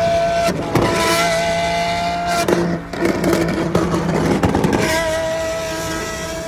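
Car engine held at high, steady revs, its pitch dropping away briefly partway through and coming back at about the same pitch near the end.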